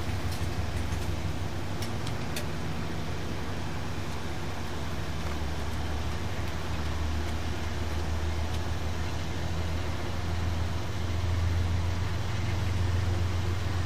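Amtrak passenger train's diesel locomotive pulling away from the station: a steady low engine drone that grows louder about eleven seconds in.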